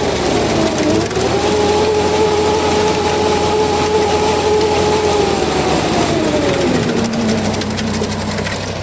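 Mitsubishi combine harvester running with a pitched whine that dips briefly about half a second in, holds steady, then drops to a lower pitch around six to seven seconds in. This is the abnormal noise the owner links to the machine clogging easily.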